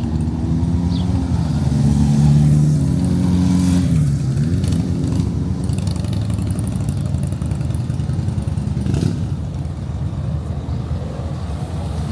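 A motor vehicle's engine running close by in a town street, loudest a couple of seconds in. About four seconds in its pitch drops and climbs again, and then it settles into a steadier low rumble.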